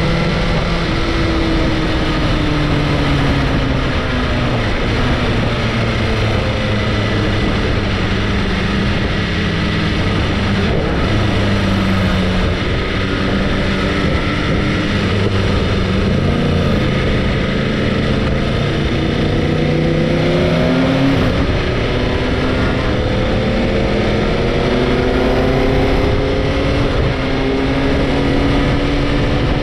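Sport motorcycle engine running under way, with a steady rush of road noise. Its pitch falls over the first several seconds, dips again in the middle, and then climbs gradually near the end.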